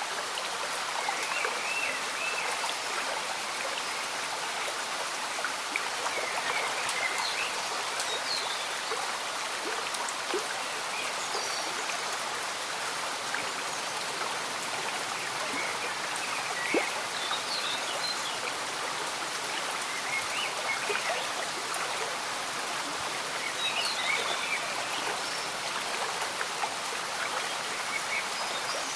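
Slow-moving stream bubbling steadily with gentle rain falling, scattered drips and drops, and short high chirps every few seconds.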